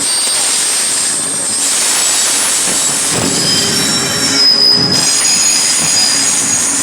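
Train passing on the rails, its steel wheels squealing in thin, high, steady tones over a loud rushing rumble.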